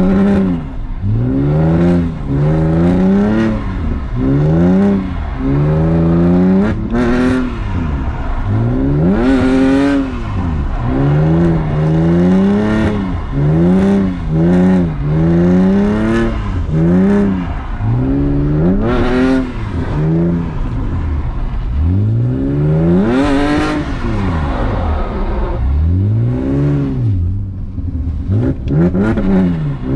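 BMW E46 engine revving up and down over and over in second gear as the car is slid on a wet road, the pitch rising and falling about once every second or so.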